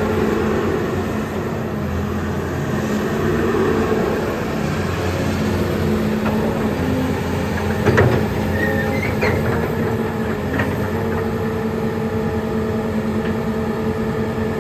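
Diesel engine of a Volvo EC210 excavator running steadily, with a sharp knock about eight seconds in and a few lighter clicks after it.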